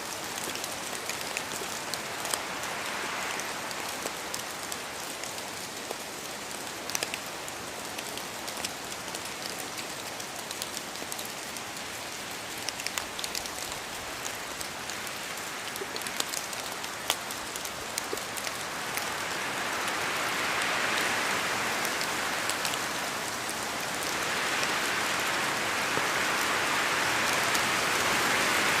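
Steady rain falling in a forest, an even hiss with many sharp individual drops pattering down from the trees. The hiss swells louder about two-thirds of the way through and again near the end.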